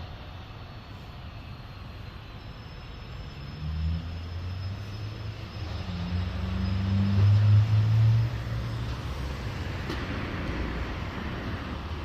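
Vehicle engine and road noise from a moving emergency vehicle. A deep low drone swells in about four seconds in, is loudest around seven to eight seconds, then drops back to steady road noise.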